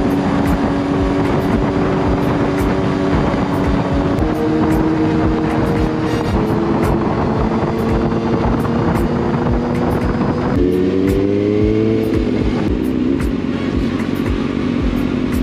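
Motor vehicle engine running under road noise, its pitch stepping up twice and then rising steadily about two-thirds of the way through, as when accelerating.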